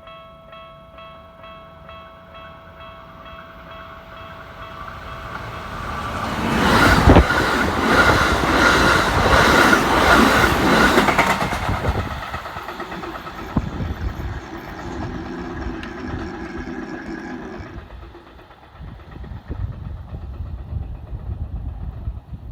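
A Japanese level-crossing warning bell rings in rapid repeating dings, about two a second. About six seconds in, an electric train passes loudly over the crossing, its wheels clattering over the rail joints. Its running noise then fades away, leaving a lower hum.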